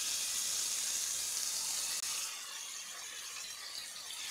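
Marinated chicken tikka pieces sizzling in hot oil on a grill pan: a steady hiss that eases a little about two seconds in.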